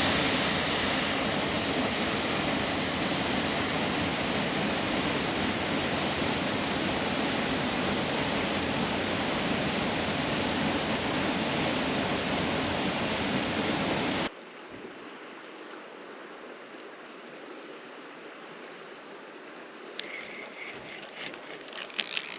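River water rushing steadily, loud for the first 14 seconds before cutting off abruptly to a quieter, more distant rush. A few light clicks come near the end.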